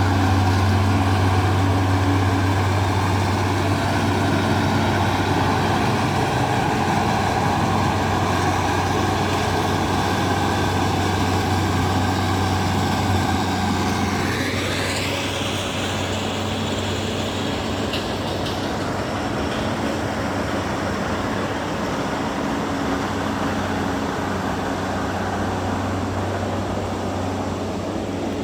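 Bulldozer's diesel engine running steadily under load, with a rising whine about halfway through, after which it runs a little quieter.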